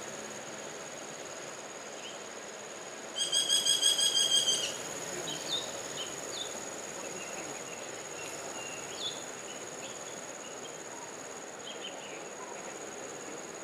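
Rufous woodpecker calling: a rapid run of about ten evenly spaced pitched notes lasting about a second and a half, starting about three seconds in. A steady high insect whine runs underneath, and a few faint short chirps follow.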